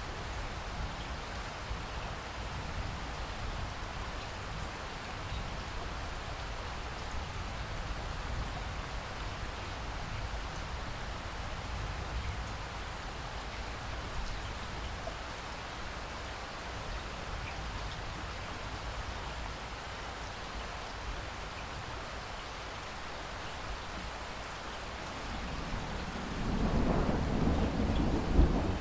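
Steady rain falling, with a deep roll of thunder swelling up near the end.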